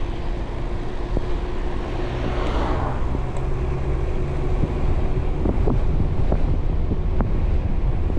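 Wind buffeting the microphone of an e-bike rider's action camera on an uphill climb under throttle, over a steady low hum from the e-bike's electric motor. A few faint light clicks sound through it.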